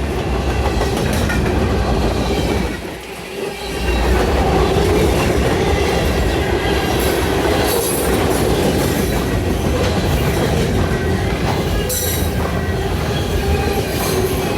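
Norfolk Southern freight train's cars rolling past, with a steady loud rumble of wheels on rail and occasional clacks over the rail joints. The rumble dips briefly about three seconds in.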